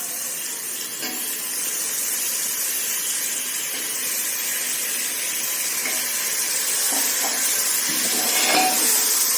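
Marinated chicken sizzling in hot oil and masala, a steady hiss that grows a little louder, with a spoon starting to clatter and stir near the end.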